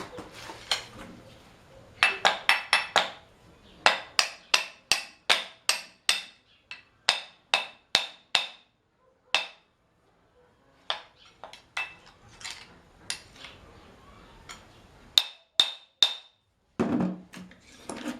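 A long series of sharp knocks or taps, coming in runs of about three a second with short pauses between runs, and a heavier, duller knock near the end.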